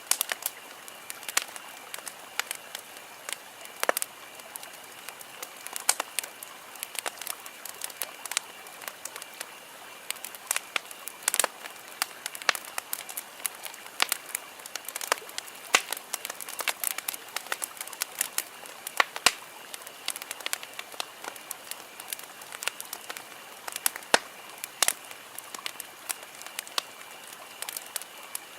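Wood campfire crackling: irregular sharp pops and snaps, several a second, over a soft steady hiss.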